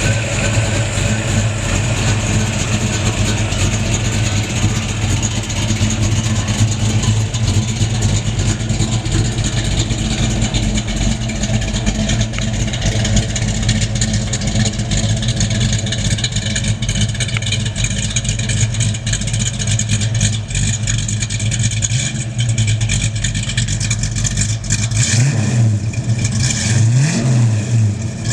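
1967 Ford Mustang's 289 V8 running under way with a steady engine note. Near the end the revs rise and fall a few times.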